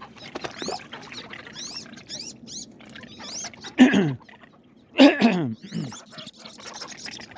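Wood ducks calling: a run of thin, high whistles that rise and fall, and twice, about four and five seconds in, a louder call sliding down in pitch.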